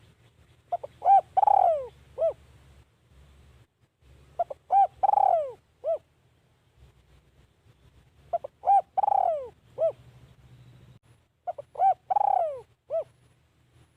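Spotted dove cooing: four song phrases, one about every three and a half to four seconds. Each is a few short coos and one longer coo that falls in pitch.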